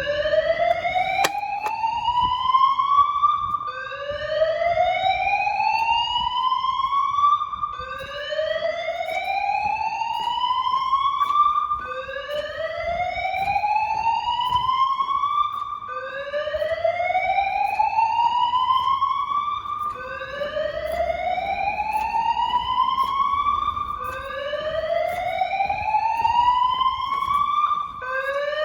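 Fire alarm evacuation speakers sounding a slow-whoop evac tone driven by a Notifier AM-2020 fire alarm system. Each whoop sweeps up in pitch and then starts over, about once every four seconds.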